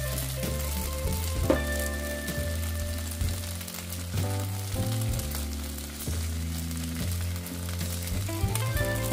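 Food frying and sizzling in a hot pan, with a steady crackling hiss. Background music with held chords and a bass line plays along.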